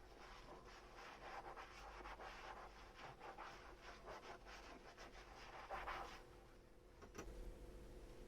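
Faint scratchy rubbing of a sponge scrubbing dishes, in quick irregular strokes that stop about six seconds in. A light click follows near the end.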